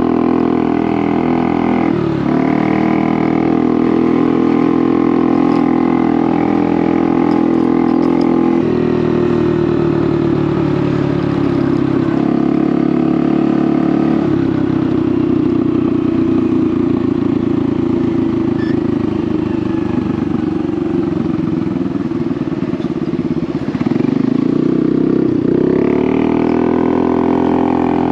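Honda Navi's small single-cylinder engine running loud through an aftermarket Vance & Hines exhaust while riding, its note shifting in pitch with the throttle, dropping about two seconds in and rising again near the end.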